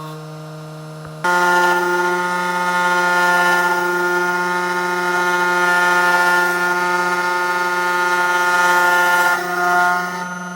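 Homemade four-axis CNC router running, its motors giving a steady whine of several held tones. About a second in it jumps louder and slightly higher, and it drops back near the end, as the machine's motion changes.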